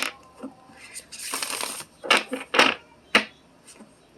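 A deck of cards being handled and shuffled: a brief riffling rustle, then several sharp card-on-table taps and slaps.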